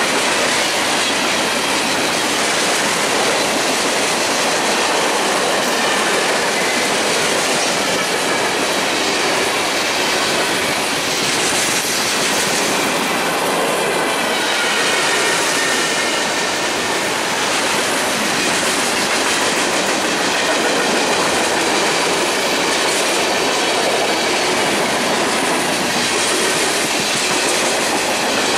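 Freight train cars rolling steadily past close by: wheels running on the rails, with a faint, wavering, thin squeal from the wheels.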